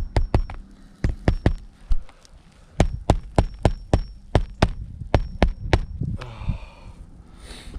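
Hammer driving roofing nails into a roof shingle: quick runs of sharp strikes in clusters of three to five, with a faint metallic ring, for about six seconds, then the hammering stops.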